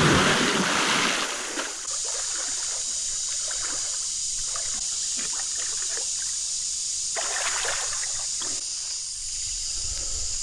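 A splash as a person goes into a creek, followed by water sloshing and trickling around them as they move in it, with a second burst of sloshing near the end. A steady high insect drone runs underneath.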